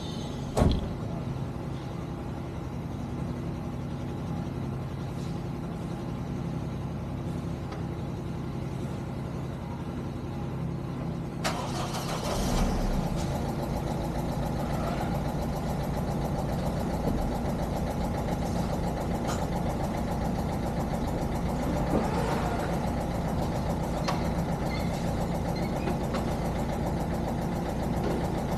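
A steady low hum with a single thump about half a second in; about eleven seconds in, a Ford Ikon sedan's engine is cranked and catches, then settles into a steady idle.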